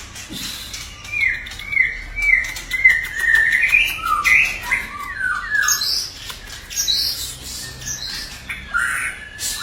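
White-rumped shama (murai batu) singing: a quick run of short descending whistled notes, then varied louder phrases with sharp high notes and chattering.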